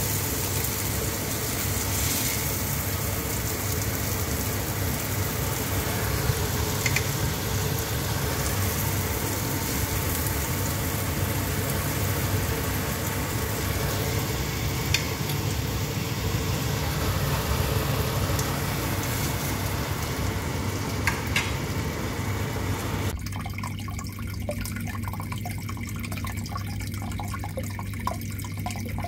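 Chicken breasts sizzling in a nonstick frying pan, an even frying hiss with a few sharp pops. About 23 s in the sizzle cuts off abruptly, leaving a quieter low steady hum.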